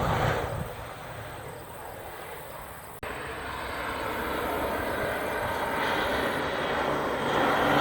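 Propeller aircraft engine drone fading away, then growing steadily louder again after a sudden break about three seconds in as the aircraft comes back closer.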